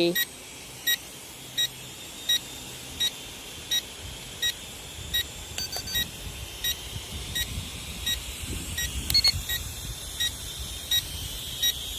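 A drone's handheld remote controller gives short, high beeps at a steady rhythm, about one every 0.7 seconds, which is typical of a low-battery warning. The drone's battery has just gone flat. Wind rumbles on the microphone in the middle.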